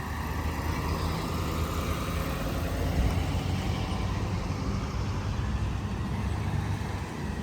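Motor vehicle on the move: a steady low engine drone with road noise.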